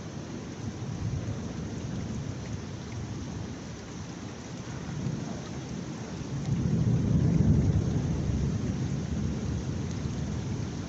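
Heavy rain falling steadily, with a low roll of thunder that swells about two-thirds of the way through and slowly fades.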